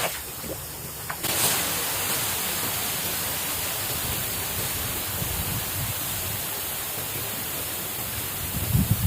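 Steady hiss of heavy rain that starts abruptly about a second in, with low rumbling near the end.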